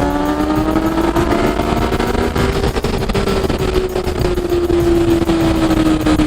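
Yamaha FZ-09's three-cylinder engine pulling under way, its note rising slowly for about three seconds and then easing back down, with wind rushing past the helmet.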